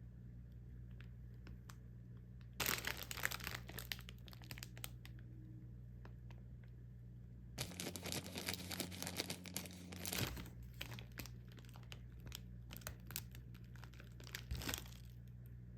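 Plastic frozen-food packaging crinkling and being torn open, in two loud bursts of rustling, the second longer, followed by lighter crackles and clicks of handling.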